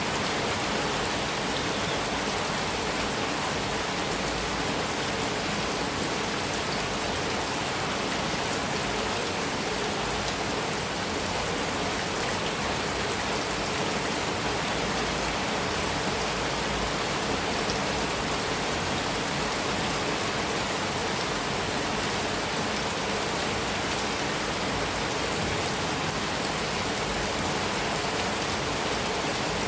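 Heavy rain falling steadily on a metal roof, an even, unbroken hiss and patter with no thunder.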